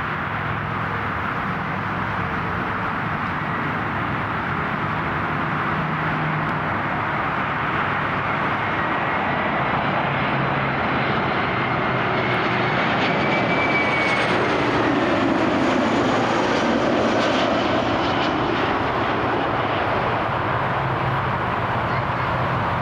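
Airliner's engines passing, a steady rush with a faint high whine that slowly grows louder, peaking about two-thirds of the way through.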